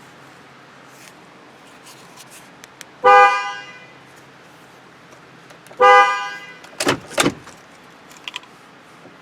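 Ford Super Duty pickup's horn sounding twice, two short honks about three seconds apart, followed by a pair of sharp clicks.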